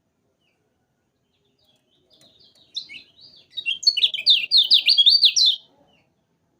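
Kecial kuning white-eye singing: after a pause, a song starts about two seconds in with a few soft high notes. It builds into a loud, fast run of repeated sweeping chirps, about five a second, and stops short before the end.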